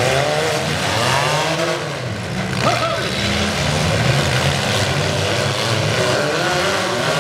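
Engines of several four-cylinder demolition-derby cars running and revving, rising and falling as the cars rush about and ram one another, with a sharp knock about two and a half seconds in.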